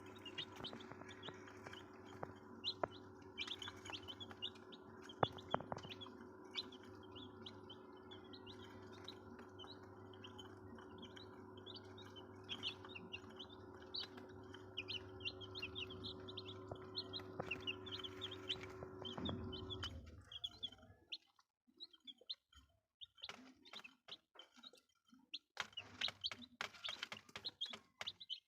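A brood of young chicks peeping continuously in quick, high-pitched chirps. Under them runs a steady electrical hum that cuts off about two-thirds of the way through, leaving the peeping on its own.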